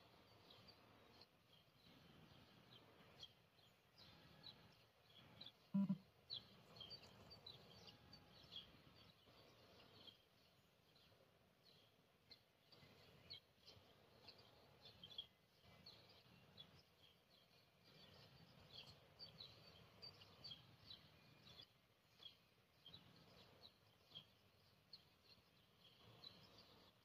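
Near silence, with small birds chirping faintly and repeatedly in the background. One soft thump comes about six seconds in.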